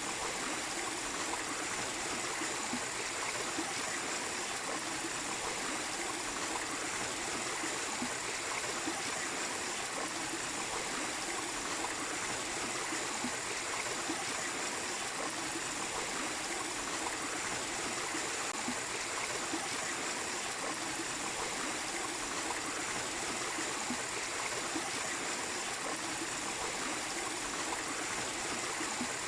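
Small waterfall running steadily, an even rush and splash of falling water with no pauses.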